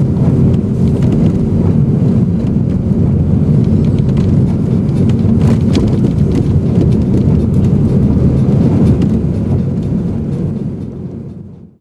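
Car driving, heard from inside the cabin: a steady low rumble of engine and tyres on the road with a few faint clicks. It fades out near the end.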